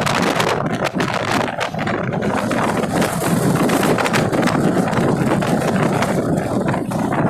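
Passenger train running, a steady rumble with constant rattling and clicking, with wind buffeting the microphone.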